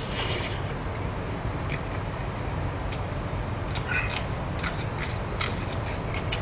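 Close-miked eating: a man chewing mouthfuls of stir-fried chicken sundae, with a steady run of wet smacks and sharp clicks from his mouth and chopsticks, over a steady low hum.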